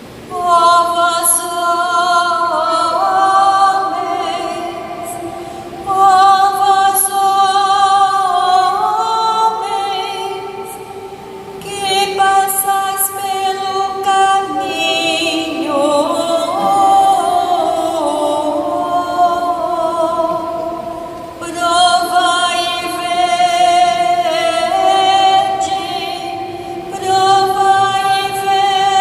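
Music: a woman singing a slow song in long, held phrases with vibrato, starting about half a second in.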